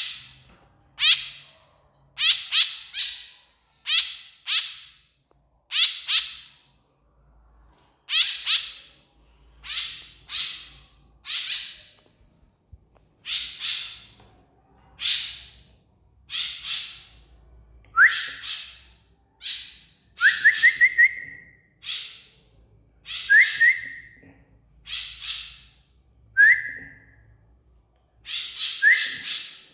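White-breasted woodswallow (kekep babi) calling: harsh, rasping notes repeated in quick groups of two to four. In the second half some calls start with a short rising whistled note, one with a quick trill.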